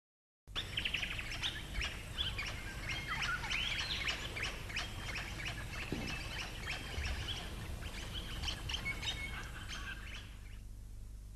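Many birds chirping and calling at once, a busy chorus of short overlapping chirps and whistles that cuts off abruptly near the end, over a faint low hum.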